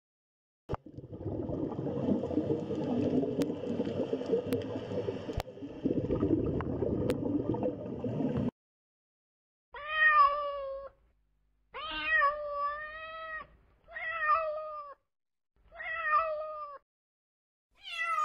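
A domestic cat meowing five times, from about ten seconds in, each meow lasting about a second with short gaps between; the last falls in pitch. Before that comes a rough, unidentified noise with a few sharp clicks.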